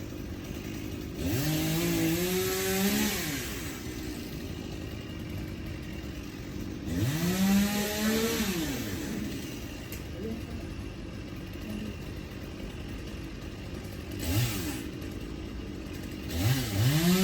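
Two-stroke chainsaw idling with a steady rumble. It is revved hard about a second in, again around seven seconds, briefly near fourteen seconds, and once more near the end. Each rev climbs in pitch, holds, then drops back to idle.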